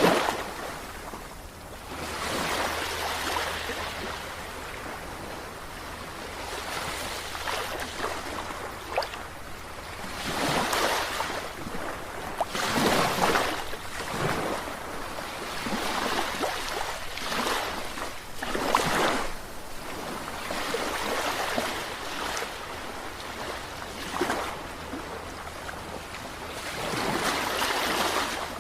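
Sea waves breaking and washing in, surging and falling back every few seconds.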